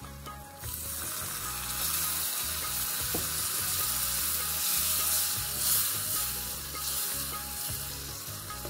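An onion and spice mixture sizzling in a small saucepan over a gas flame while a small wooden spoon stirs it. The sizzle rises about half a second in and gets louder again near two seconds.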